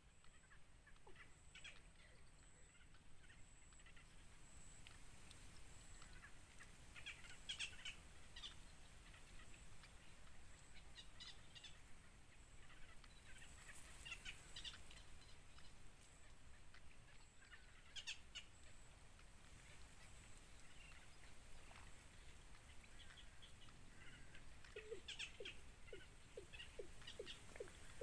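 Faint, high bird chirps in short clusters every few seconds over a low hiss, with a quick run of low ticks near the end.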